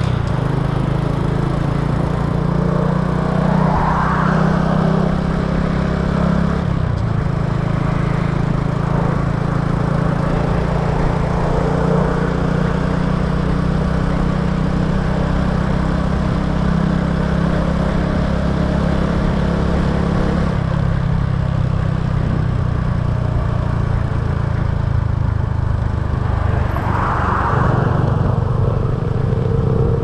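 Small motorbike engine running steadily while riding, heard from a camera mounted on the bike. Its pitch shifts about seven seconds in and again about twenty seconds in.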